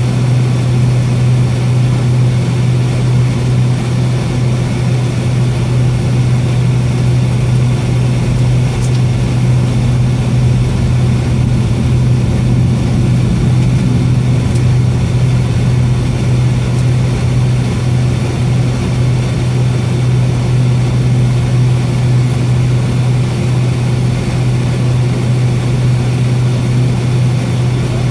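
Steady low hum of a Boeing 757-232's Pratt & Whitney PW2037 turbofan engines at low ground thrust, heard inside the passenger cabin, with a faint steady whine above it.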